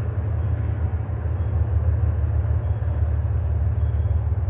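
Double-stack container freight train rolling slowly past, a steady low rumble of the cars and locomotives. A faint thin high whine joins about three seconds in.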